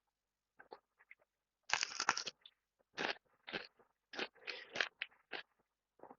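Close-up crunching and chewing of fried banana, in irregular crisp bites with the loudest crunch about two seconds in.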